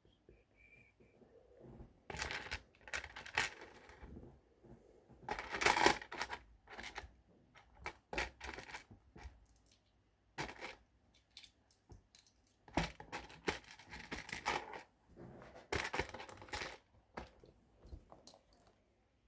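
Plastic Lego pieces being handled during a build: several spells of rattling and rustling plastic, each about a second long, with scattered sharp clicks between them.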